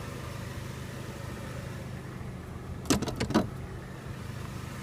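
Steady low hum with a quick cluster of sharp clicks and knocks about three seconds in.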